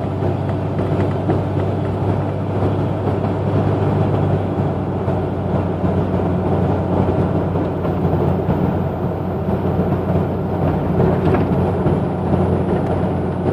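Exhaust note of a 1992 Jeep Cherokee's 4.0-litre straight-six through a 2.5-inch exhaust and Thrush Turbo muffler, a steady low drone while driving.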